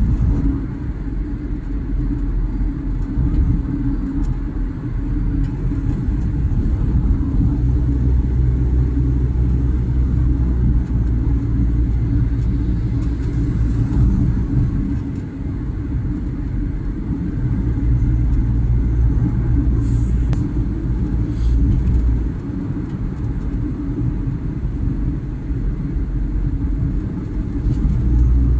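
A car driving along the road: a steady low rumble of engine and road noise that swells and eases a little, with a few faint clicks about two-thirds of the way through.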